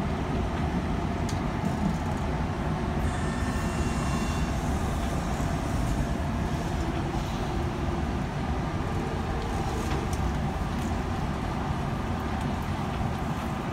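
Steady running rumble of a Kintetsu electric train, heard inside the front car as it comes alongside a station platform. A faint high whine sounds briefly about three to five seconds in.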